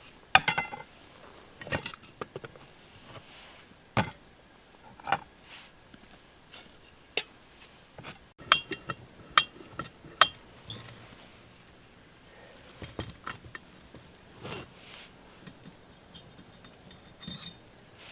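Irregular metallic clinks and knocks, some briefly ringing, as the metal parts of a Shmel-1 primus stove are handled and set up for lighting.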